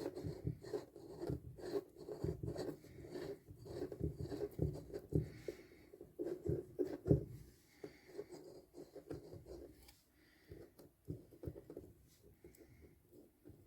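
Irregular rubbing and scraping with light knocks, dense for the first several seconds and then sparser.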